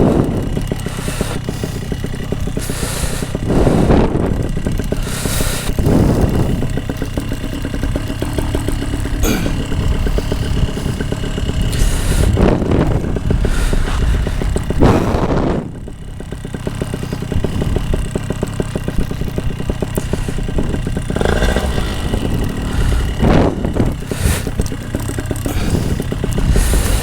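Paramotor engine running at idle, a steady mechanical drone, with irregular loud gusts of wind on the microphone every few seconds.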